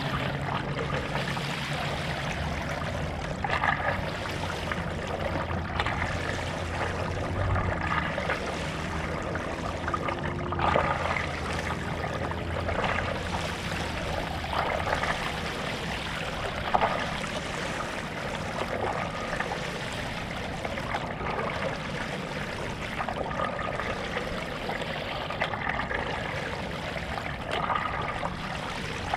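Water splashing and trickling from stand-up paddle strokes, a stroke about every two to three seconds, with a faint low hum through the first half.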